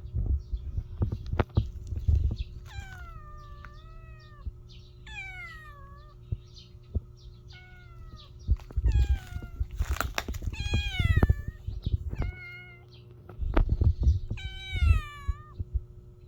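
A kitten mewing repeatedly: about ten short, high-pitched calls, each falling in pitch, coming from a few seconds in onward. Low bumps and rumble run underneath.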